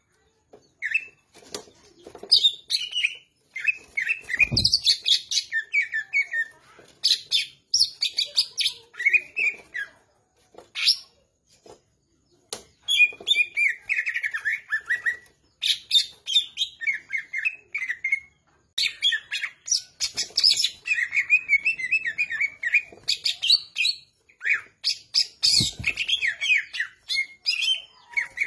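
Cucak ijo (green leafbird) singing at full tilt in fast, varied bursts of chirps, warbles and sharp clicking notes, with brief pauses along the way. Two low thumps sound about a third of the way in and near the end.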